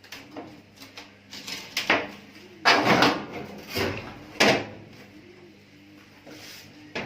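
Metal top panel of a gas cooker being lowered and fitted back onto the stove body, knocking and scraping against it several times, loudest about three seconds in and again halfway through.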